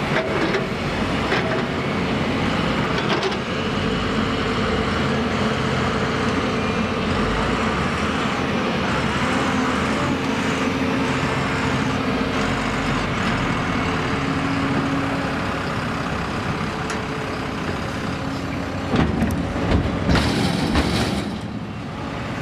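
Heavy diesel vehicle engine running steadily, with a short loud hiss near the end.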